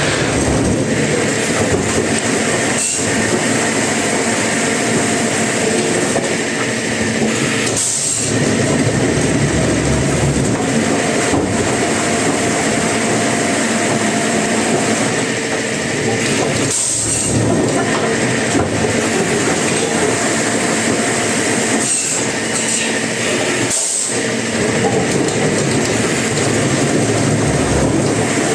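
Sawmill machinery working timber, a loud, steady mechanical clatter that briefly drops out about five times.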